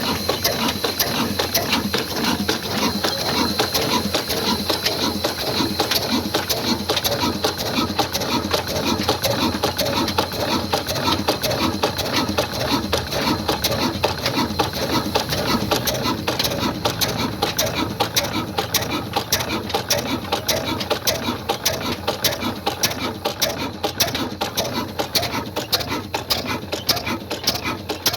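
Big old black 22 hp, 300 rpm stationary diesel engine running steadily with a fast, even mechanical clatter.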